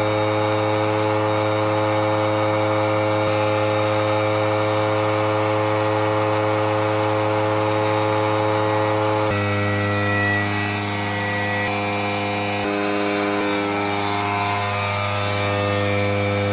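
A power tool's motor running steadily at constant speed, with an abrupt change in its tone about nine seconds in.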